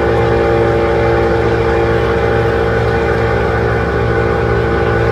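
Engine running steadily at a constant speed, a continuous hum with no changes.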